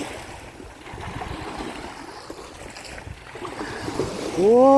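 Rushing surf and wind noise at the shore. Near the end a woman's voice swoops up into a long, wavering sung note.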